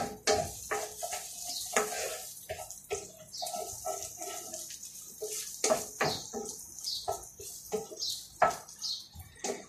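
Birds chirping repeatedly with short high calls that fall in pitch, and some lower cooing notes, over scattered sharp clicks and knocks.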